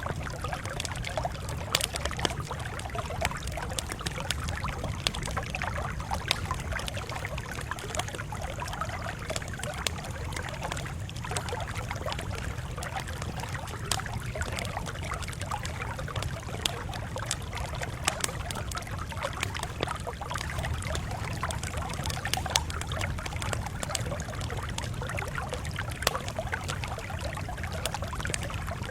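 Wood campfire crackling steadily, with frequent sharp pops and snaps over a low steady rumble.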